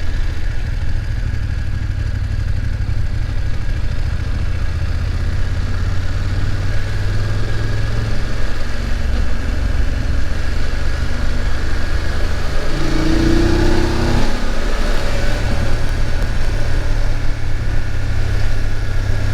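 BMW F850GS parallel-twin engine running under way, a steady low rumble. About two-thirds of the way through the engine note dips briefly and a short higher-pitched tone sounds.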